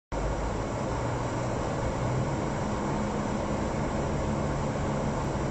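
Vehicle engine running steadily, heard from inside the cab while driving through floodwater, with a low hum under an even rushing noise.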